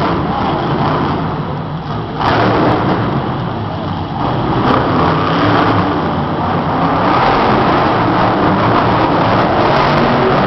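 Monster truck's supercharged V8 engine running hard and revving, loud and continuous, with a sudden surge in level about two seconds in.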